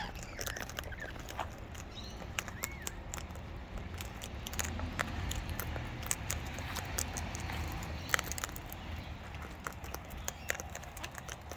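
Wild birds feeding at close range: irregular light clicks and taps of beaks and claws, with one faint short chirp about two and a half seconds in, over a steady low rumble.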